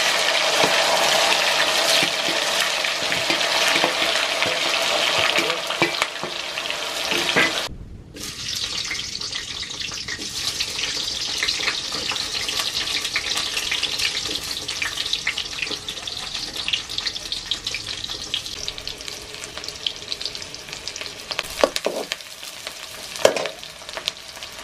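Paneer cubes sizzling loudly in hot oil in a steel kadai. After a sudden break about eight seconds in, a quieter crackling sizzle of chopped onions frying as they are stirred with a spoon, with two sharp knocks near the end.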